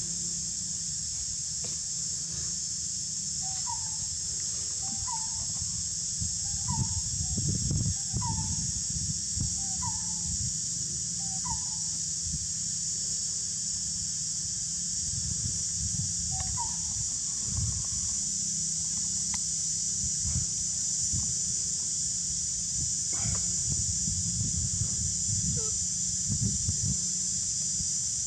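Outdoor ambience: a steady high-pitched insect hiss over a low wind rumble. A bird calls one short note about once a second, about six times from a few seconds in, then once or twice more later.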